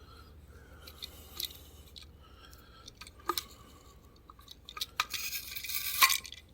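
Light clicks and taps of a small die-cast toy car being handled and turned over, with a brief rustle and a cluster of clicks about five to six seconds in.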